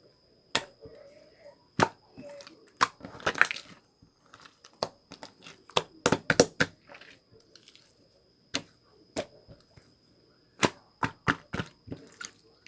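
Slime being squeezed and worked by hand, giving sharp clicking pops and crackles, with quick runs of them about three and six seconds in.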